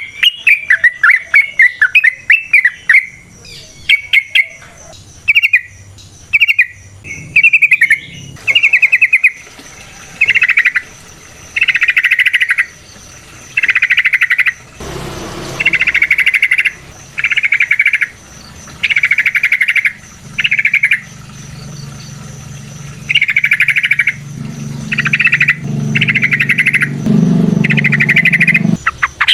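Yellow-vented bulbul (trucukan) singing loudly: quick bubbling warbled phrases at first, then a long run of buzzy chattering phrases, each about a second long, repeated every second or two. A low hum rises in the background in the second half.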